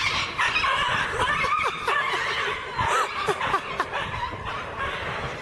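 Several people laughing and chuckling without a break.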